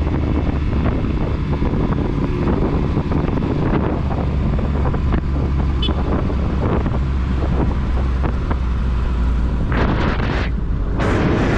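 Motorcycle engine running steadily while riding, with wind buffeting the microphone. Two brief louder rushes of noise come near the end.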